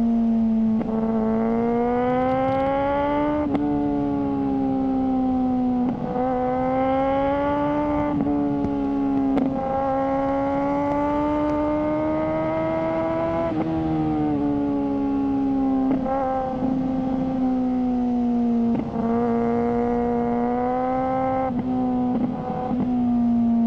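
Suzuki GSR600's 600 cc inline-four running through a GPR Ghost aftermarket exhaust under way at fairly high revs. The revs climb gently and then fall off abruptly several times, with short crackles at the drops.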